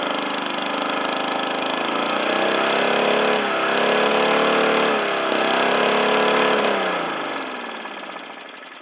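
Petrol lawn mower engine running flat out with its throttle stuck wide open, the pitch dipping briefly twice, then slowing and dying away over the last couple of seconds as the abused engine gives out; it is found seized solid with no compression.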